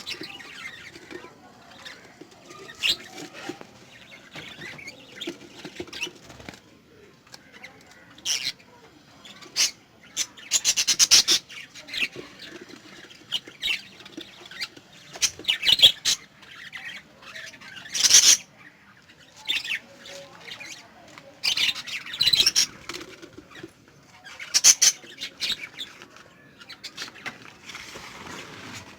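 Lovebirds giving shrill chirps and squawks in scattered bursts, with bouts of wing flapping.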